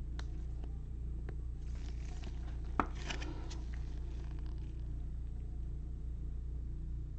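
Faint handling of trading cards and pack wrappers: a few soft clicks, then a short stretch of rustling and clicking with one sharp click about three seconds in, over a steady low hum.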